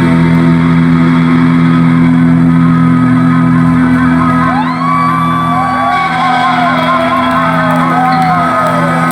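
Live rock band music: a loud held chord rings on steadily, and from about halfway through a lead line slides and bends in pitch over it.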